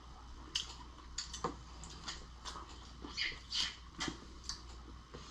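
Close-miked eating sounds of a cooked lobster: irregular short crackles and clicks of shell being worked and chewed.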